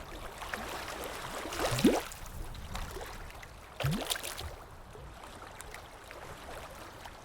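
Running, gurgling water with two short rising bubbling swoops about two seconds apart.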